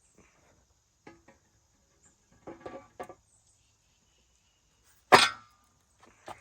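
Scattered clinks and knocks of metal tools or engine parts being handled, with a few light taps, a cluster of clatter about two and a half seconds in, and one sharp, louder knock about five seconds in.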